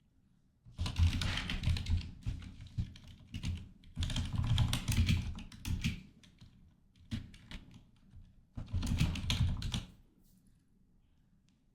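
Typing on a computer keyboard: four bursts of rapid keystrokes with short pauses between them.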